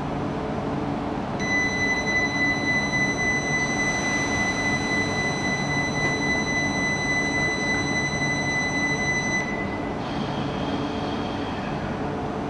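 E4 series Shinkansen train running as it pulls away, a steady rumble. A steady high whine comes in about a second and a half in and cuts off near the end.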